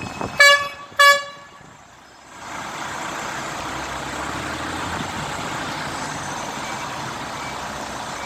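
A vehicle horn gives two short toots about half a second apart. From about two and a half seconds in, steady engine and road noise follows as vehicles pass.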